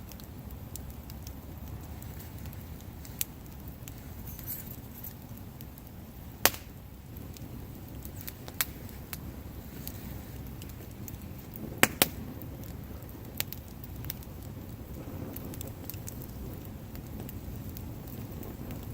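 Wood bonfire burning: a low, steady rush of flame with scattered sharp crackling pops from the burning wood, about half a dozen in all, the loudest a quick pair about two-thirds of the way through.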